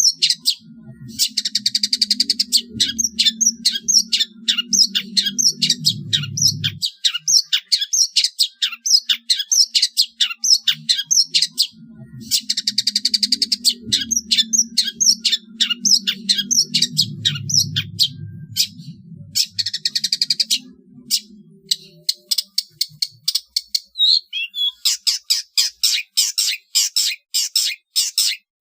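Long-tailed shrike (cendet) giving its rapid 'trotol' call: sharp, high, down-slurred notes repeated about four times a second, broken by several short harsh, buzzy runs. A faint low hum sits underneath in two long stretches.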